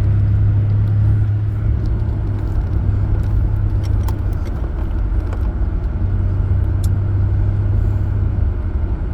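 A vehicle driving along: a steady low engine and road drone with no change in pitch.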